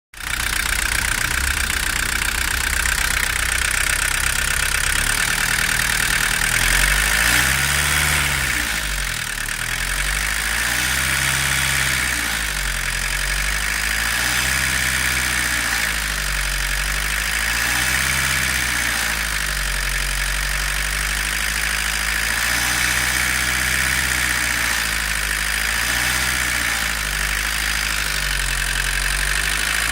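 Volkswagen 1.6-litre four-cylinder turbodiesel engine idling steadily. From about seven seconds in, a low hum rises and falls gently in pitch about every two seconds.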